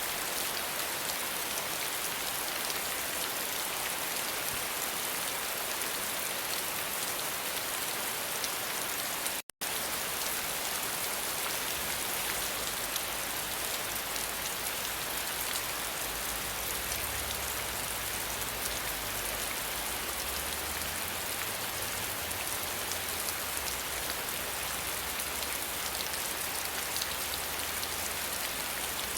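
Steady rain falling, a dense patter of drops hissing on a surface. About a third of the way in the sound cuts out for a split second, and soon after a low rumble joins in underneath the rain.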